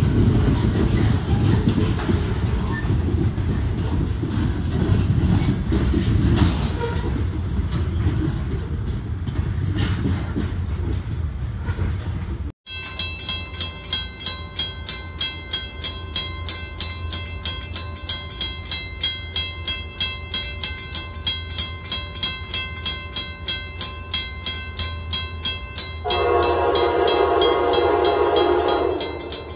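A freight train of flatcars and covered hoppers passing close by with a steady rumble of wheels on rail. After a cut, a train horn sounds one long blast of about three seconds near the end, from a train approaching out of sight.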